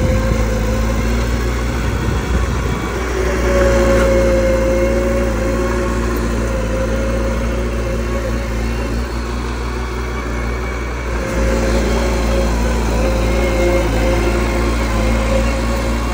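Diesel engine of a mini bulldozer running steadily. It swells louder about three seconds in and again past eleven seconds.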